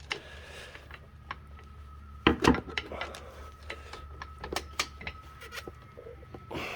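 Metal tools clanking and knocking against the kicker bracket as a shock-compressing rig is worked by hand, with two louder knocks about two and a half seconds in. A faint steady high tone runs under the middle part.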